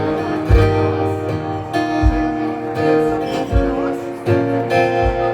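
Acoustic guitar strummed in an instrumental stretch of a song, held chords over a low beat about every three-quarters of a second, with no singing.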